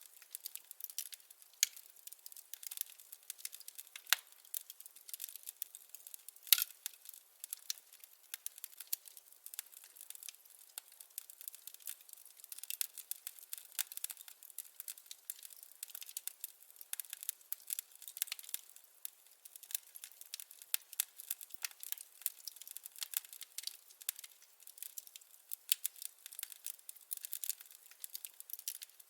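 Wood fire crackling: a dense, irregular run of small pops and snaps, with a couple of louder pops about four and six and a half seconds in.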